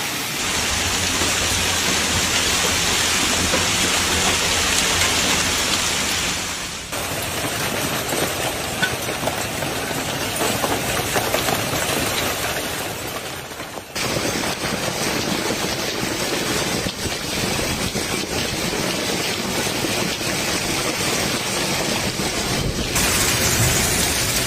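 Heavy storm rain: a dense, steady hiss of rainfall, changing abruptly about 7, 14 and 23 seconds in, with a few sharper taps.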